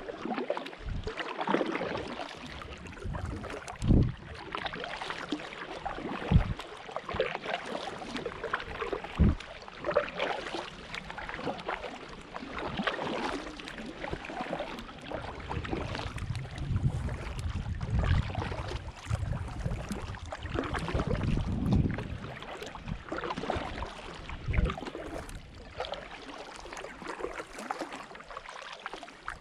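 Wind gusting on the microphone over water, with a few dull thumps early on and heavier low gusts in the second half.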